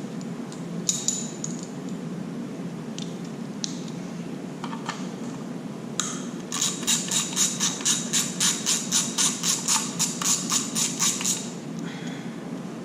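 A ratchet wrench with a 10 mm socket working a bolt on the engine: a few single clicks and knocks, then about halfway through a fast, even run of ratchet clicks, about four a second, for some five seconds before it stops. A steady low hum runs underneath.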